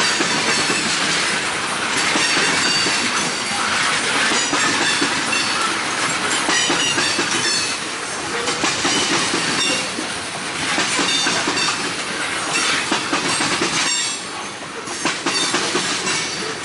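Railroad cars rolling past at close range, their wheels clacking over rail joints, with short high-pitched wheel squeals now and then.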